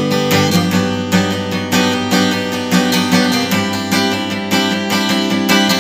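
Acoustic guitar strumming chords in a steady rhythm: the instrumental part of a song, with no singing.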